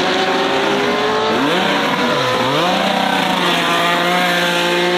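Racing car engine held at high revs, its pitch dipping and climbing back about one and a half to two and a half seconds in, then held steady.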